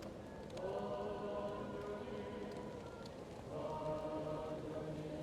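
Choir singing slow, held chords that sound muffled, as if heard from another room. A new phrase swells in about half a second in and another about three and a half seconds in. Sparse fireplace crackles pop softly over the singing.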